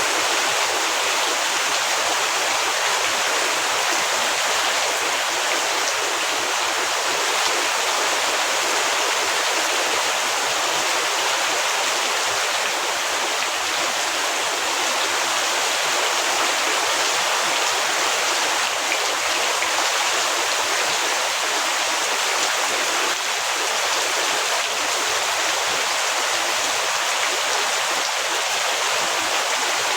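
Heavy rain falling steadily, a dense, even hiss with no thunder or distinct drops standing out.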